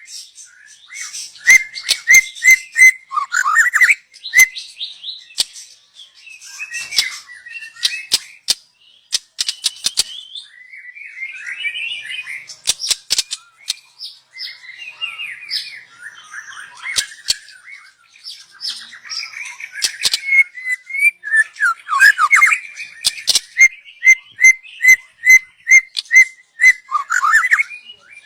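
Young white-rumped shama singing a varied song of whistled phrases and chatter, with runs of quick repeated notes and sharp clicks between them.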